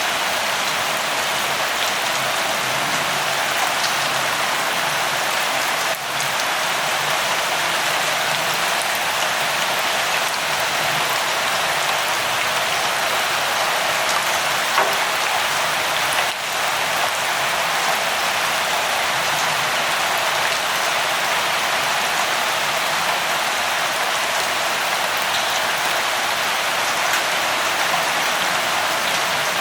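Light rain falling steadily as an even hiss, with a few sharper single drop taps now and then.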